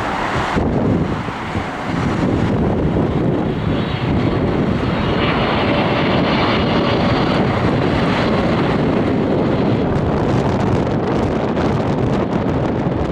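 Cargo aircraft's engines running loud as it passes, a steady rush of noise with a high hissing whine added from about four to ten seconds in.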